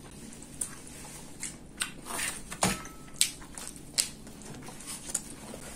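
Biting and chewing pizza crust close to the microphone: a scatter of sharp crunches and wet mouth clicks, the loudest a little past halfway.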